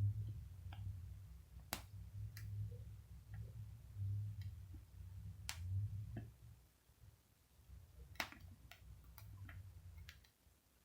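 Tarot cards being shuffled and handled: scattered sharp, snapping clicks, about a dozen in all, over a low handling rumble that fades out about two-thirds of the way through.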